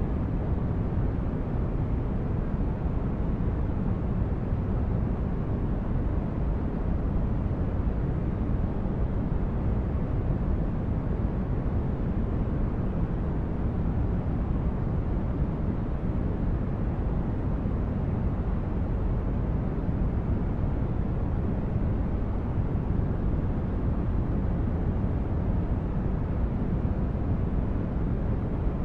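Steady ambient noise for sleep: an even, deep rumbling hiss with no pitch or rhythm, heaviest in the bass and thinning out toward the highs, unchanging throughout.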